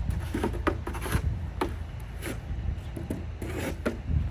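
Snow shovel scraping and pushing snow across porch stairs, in a run of short, uneven scrapes.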